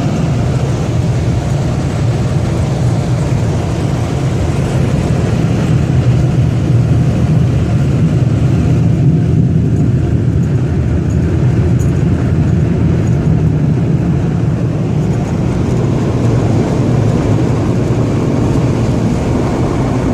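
Autec EV-1 car wash air dryers blowing on the car, a loud, steady rush of air heard from inside the cabin.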